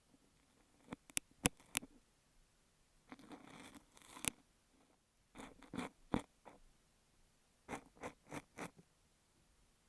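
Ear pick working kinetic sand on a beeswax sheet over an earphone microphone: separate bursts of crisp crunching and scraping with sharp clicks, a longer scratchy stroke a few seconds in, and a quick run of about five short strokes near the end.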